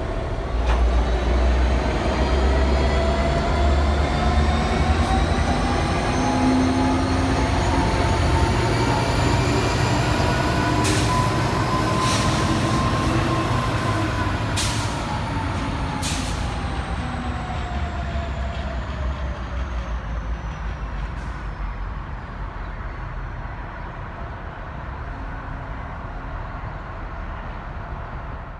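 Diesel-electric freight locomotives running past with a heavy low engine rumble and a whine that climbs slowly in pitch, peaks about halfway, then falls away. Four sharp metallic clicks come in the middle, and the sound fades near the end.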